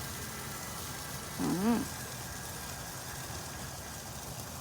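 A single short vocal sound, like an 'ooh' or 'mmm', rising then falling in pitch, about a second and a half in, over a steady low hum.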